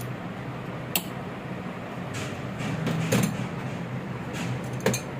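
A steady low machine hum with sharp knocks or clinks about a second in, around three seconds in, and again near the end.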